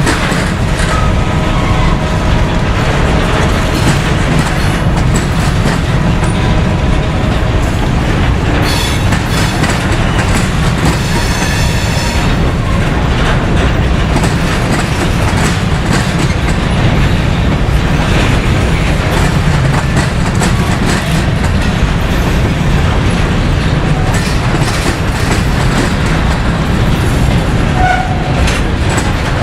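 Norfolk Southern freight train's cars rolling steadily past, wheels clicking over the rail joints, with faint wheel squeal in the first part.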